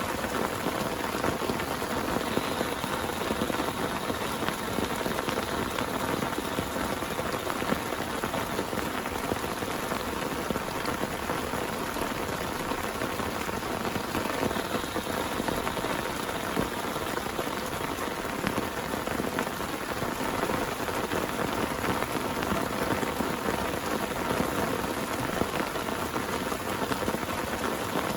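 Heavy rain falling steadily, a dense, even patter of drops on a surface with no thunder.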